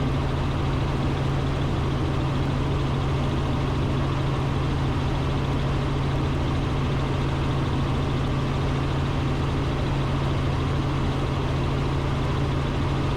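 Robinson R44 Raven II helicopter in cruise flight, heard from the cockpit: its six-cylinder Lycoming piston engine and rotors making a steady, unchanging drone with a strong low hum.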